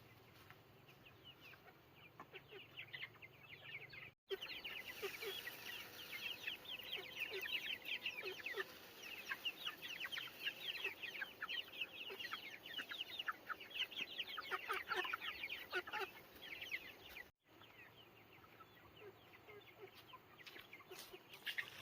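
Chickens calling: many short, high chirps and clucks overlapping, louder from about four seconds in until about seventeen seconds.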